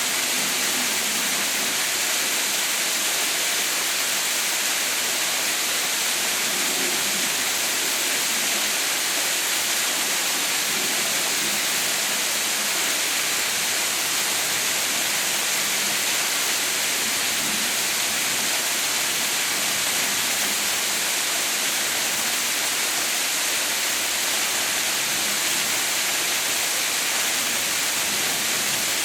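Waterfall pouring without a break: a steady, hissing rush of falling water.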